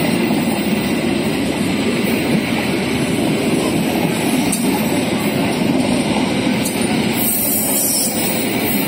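Passenger coaches of a locomotive-hauled train rolling past at close range: a loud, steady rumble of steel wheels on the rails.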